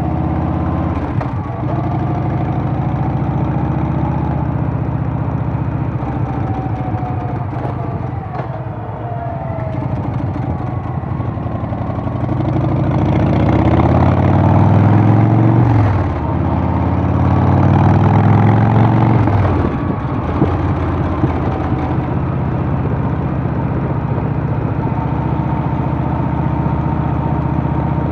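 Harley-Davidson Softail's Milwaukee-Eight V-twin running while the bike is ridden. About halfway through the engine pulls harder twice, its pitch rising each time, and each pull drops off sharply as for an upshift before it settles back to a steady cruise.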